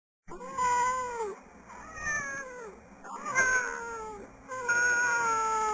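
Siamese cats meowing: about four long, drawn-out yowling calls in a row, each sagging in pitch at its end.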